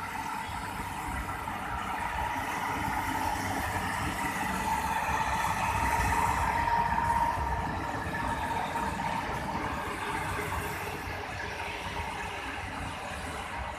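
Engine-driven rail machinery running steadily with a whine, growing louder about halfway through and then easing off.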